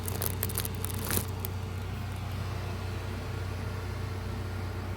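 3D printer running idle with a steady low hum, with a few faint clicks and crackles in the first second or so.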